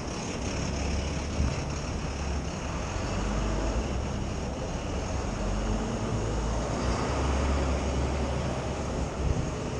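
Steady city traffic noise, a low rumble of vehicles on a downtown street.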